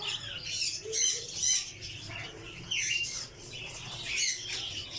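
A mix of caged birds chirping and squawking, several calling at once, with louder sharp calls about a second in and again near the end.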